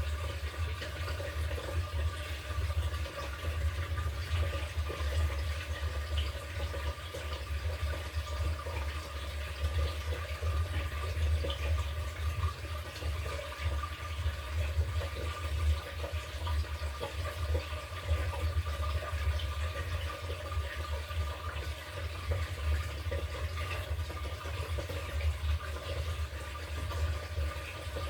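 LG top-loading washing machine mid-cycle: a steady rush of water in the tub over a constant low hum, unchanging throughout.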